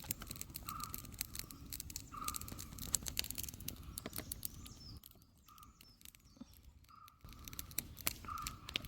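Dense crackling and popping from a campfire cooking tandoori fish, thinning briefly just past the middle. A bird calls a short repeated note about every second and a half behind it.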